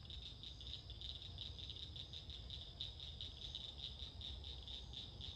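Faint night chorus of frogs and insects: high calls pulsing rapidly and without pause over a steady high insect drone, with a low rumble beneath.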